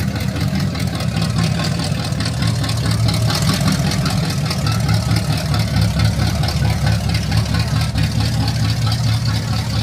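Car engine idling loudly and steadily close by, with a deep, fast, uneven pulse.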